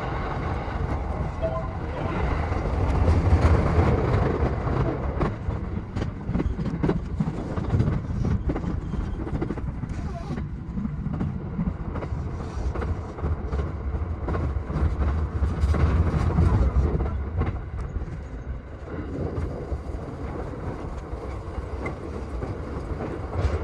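E233 series 7000 electric commuter train running on the rails: a steady rumble of wheels and track, with frequent short clicks over the rail, swelling and easing as it goes.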